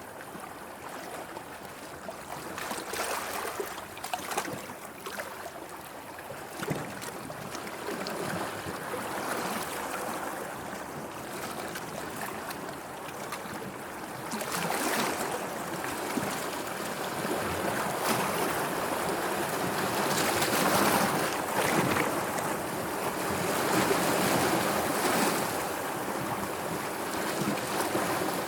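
Sea waves washing in surges that rise and ease, growing louder about halfway through.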